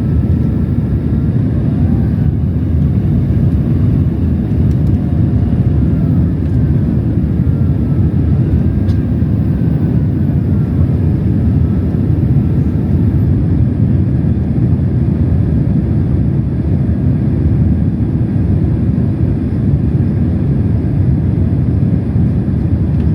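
Steady low rumble of engine and airflow noise inside the passenger cabin of a Boeing 767-300 in flight, even and unbroken throughout.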